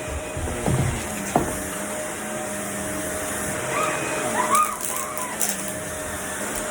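Vacuum cleaner running steadily with a constant motor hum and airflow rush, with a sharp knock about a second and a half in.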